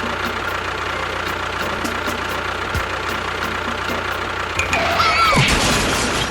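Engine running steadily. About five seconds in, a short high squeal slides down in pitch over it.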